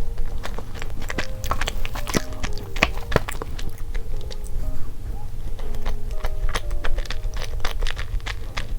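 Close-miked eating sounds: chewing, with many short sharp mouth clicks and smacks, over light background music.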